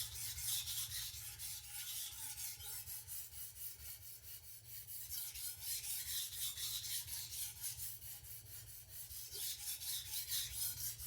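Steel chef knife blade being stroked back and forth on a sharpening stone, a steady run of quick, even rasping strokes while the edge is being ground uniform along its length.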